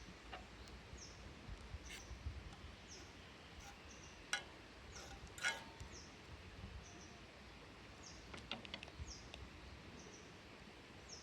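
A small bird calling over and over: short high chirps that fall in pitch, about one a second. Two sharp clicks come in the middle, over a faint low rumble.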